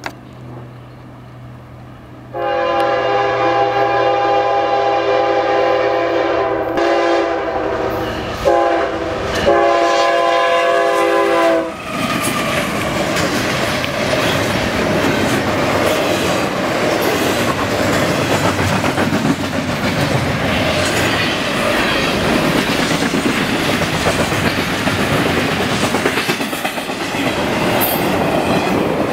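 A CSX freight train led by a GE ES44AH diesel locomotive sounds its horn in long blasts from about two seconds in to about twelve seconds in, with a brief break in the middle. The locomotive then passes close, and the loud, steady rolling noise of the double-stack container cars on the rails fills the rest.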